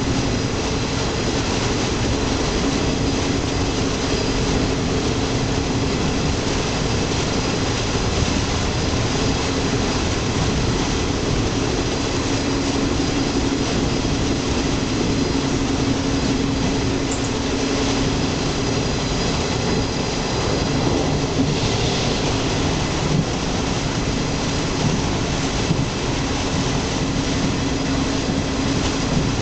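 Steady running noise heard inside a moving local passenger train: wheels running on the rails, with a constant hum underneath.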